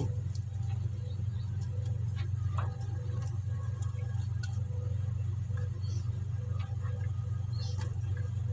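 Small ticks and clicks of fingers handling and braiding PE fishing line into a cord, over a steady low hum.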